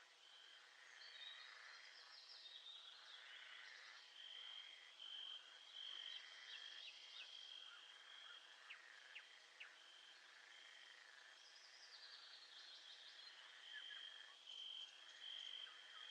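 Faint nature soundscape: a steady, high, pulsing insect trill with clusters of short chirping calls over it.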